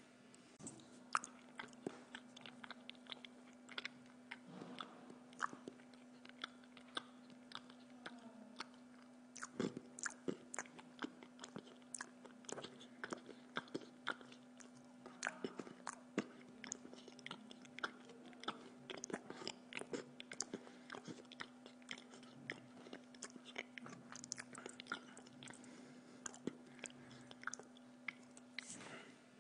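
A person chewing and biting pizza close to the microphone, with many short sharp clicks and crunches of crust, over a steady low hum.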